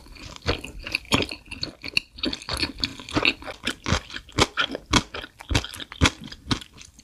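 Close-miked chewing of a mouthful of noodle wrap in spicy sauce, a run of sharp smacking mouth clicks about twice a second.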